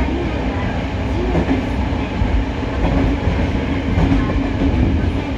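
Hokuriku Railroad 03 series trailer car running, heard from inside the cabin: a steady rumble of wheels on rail with occasional rail-joint clacks. There is no motor whine, because the car carries no traction motors.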